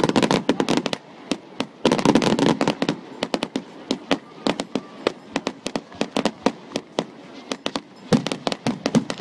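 Fireworks going off in rapid succession: a dense run of sharp crackles and bangs, thickest at the start and again about two seconds in, then sparser pops for the rest.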